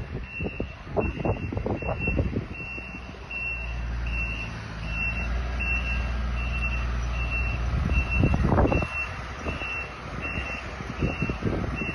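A snow-clearing vehicle's reversing alarm beeping steadily, about two beeps a second, over its running engine, with scattered knocks and scrapes. The engine rumble swells in the middle.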